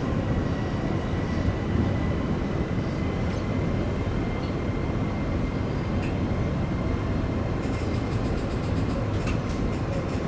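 JR Takasaki Line electric local train running on the rails: a steady rumble with a faint whine held near one pitch that rises slightly. A few light clicks come near the end.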